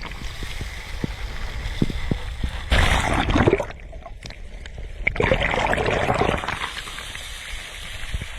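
Sea waves washing in over the shore: a steady wash of water with two louder surges, one about three seconds in and another about five seconds in.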